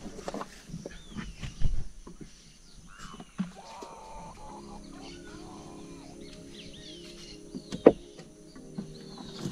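Birds chirping and calling, with a few sharp knocks, the loudest near the end. Steady low musical tones come in about halfway.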